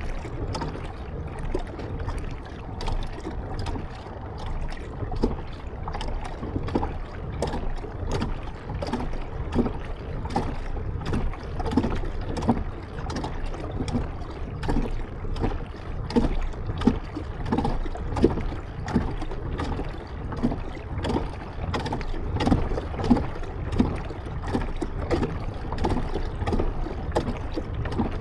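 Kayak paddle strokes in water: a steady run of splashes and drips, roughly one or two a second, over a low rumble.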